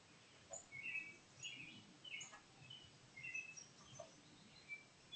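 Songbirds chirping: a scattered string of short, faint chirps over a quiet background, with a few soft taps between them.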